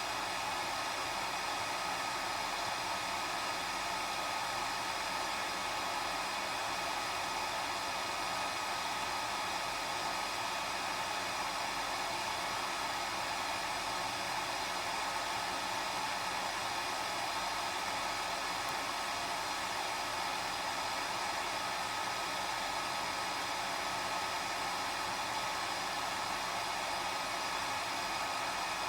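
Hair dryer running continuously: an even rush of blown air with a faint steady motor whine, unchanging in pitch and level.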